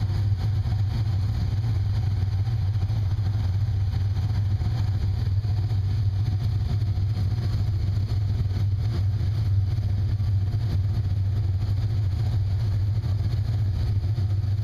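Car engine idling steadily, a constant low hum with an even hiss above it.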